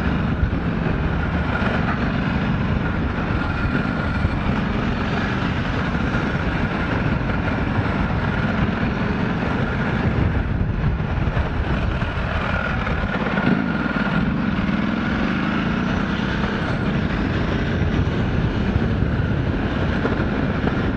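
Motorcycle engine running steadily on the move, mixed with constant wind rush over a helmet-mounted microphone.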